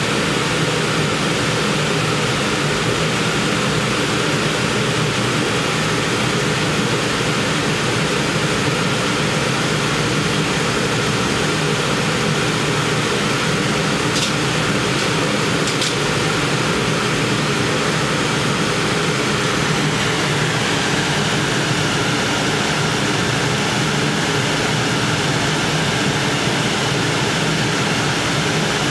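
A loud, steady machine drone with a low hum that does not change, with a few faint high ticks about halfway through.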